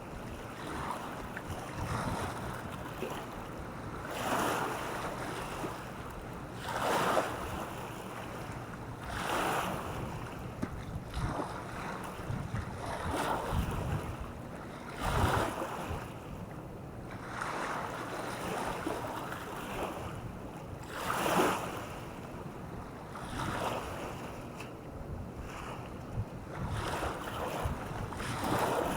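Small waves breaking and washing onto a beach, a surge of surf every two to three seconds over a steady wash, with some wind on the microphone.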